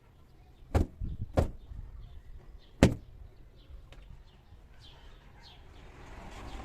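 A few sharp household knocks and clunks, two close together about a second in, the loudest near three seconds and a lighter one at four seconds, over faint bird chirping.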